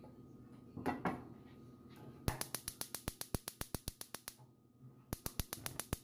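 Gas stove burner igniter clicking fast and evenly, about ten clicks a second, in two runs as the burner is lit under the pan, after a couple of knocks about a second in.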